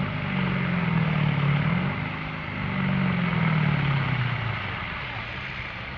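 Competition pulling tractor's engine working hard under load, its pitch rising and falling twice, then dying down after about four and a half seconds.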